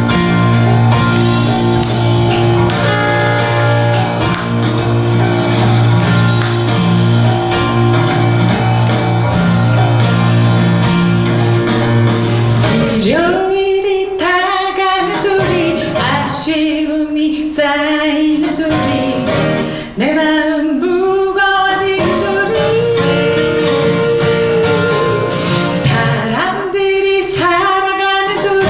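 Acoustic song played live: a guitar-led instrumental intro over a steady held low note, then a voice comes in singing over the accompaniment about thirteen seconds in.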